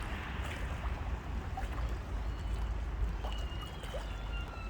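Outdoor river ambience: a steady wash of water noise over a low rumble. In the second half come faint, thin, steady whistling tones.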